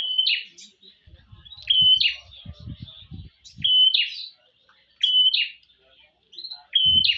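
Prinia (prenjak) calling five times, roughly every one and a half to two seconds, each call a short even note followed at once by a quick harsh sweeping note; a female's call to the male. Low muffled bumps sound under the calls in the middle and near the end.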